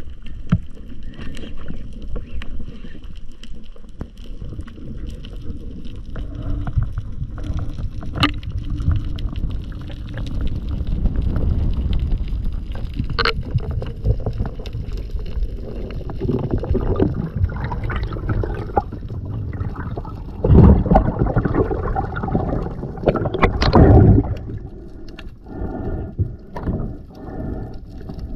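Muffled water sounds: a steady low rumble of moving water with a few sharp knocks, and two louder surges of sloshing about two-thirds of the way through.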